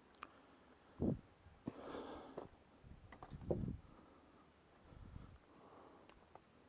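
Faint steady high-pitched insect chirring, like crickets, with a few soft knocks and brief rustles about one and three and a half seconds in.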